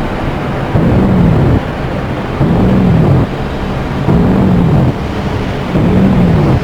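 Dark ambient noise music from synthesizers: a dense, rumbling noise drone with a low tone that swells up in pitch and falls back, repeating about every second and a half to two seconds.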